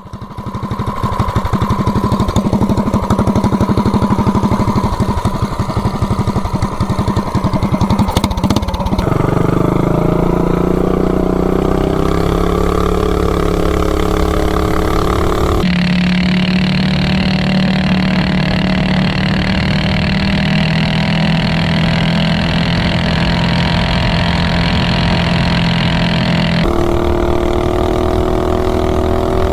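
Predator 420cc single-cylinder minibike engine running hard through an open header pipe, climbing in pitch as it pulls and then holding steady. The sound changes abruptly three times, like cuts between riding clips.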